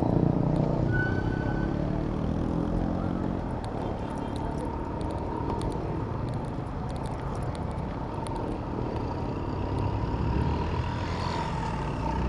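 Road traffic and wind noise heard from a bicycle in city traffic. A motor vehicle's engine passes close by in the first few seconds, and a faint steady whine runs from about four seconds in.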